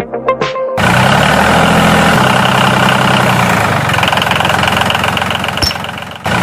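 A motor running steadily, cutting in suddenly after a short bit of music and dipping briefly near the end before running on.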